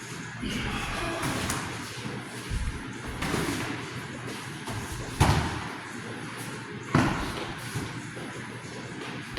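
A few heavy thuds and slams echoing in a large room, the two loudest about five and seven seconds in.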